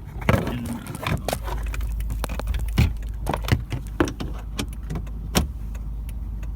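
Plastic steering-column trim being handled and fitted back in place: a run of sharp clicks, taps and knocks, with keys jangling. A steady low hum starts about a second in.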